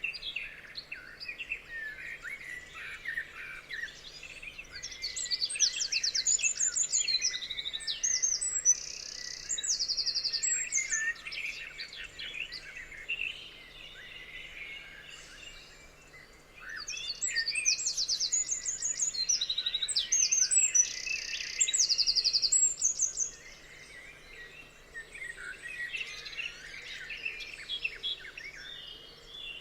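A chorus of forest songbirds chirping and calling. Twice, for several seconds each, a louder bird's song of fast trills and rapid repeated notes stands out above the chorus: about five seconds in, and again about seventeen seconds in.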